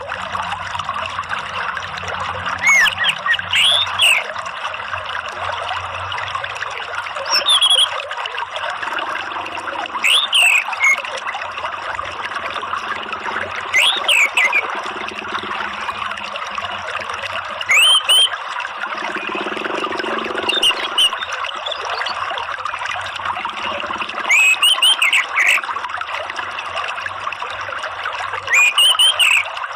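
Steady trickling, flowing water with a bird calling over it: short whistled phrases of a few rising and falling notes, repeated about every three to four seconds. The bird is an orange-headed thrush (anis merah), played as a lure call to set a caged bird singing.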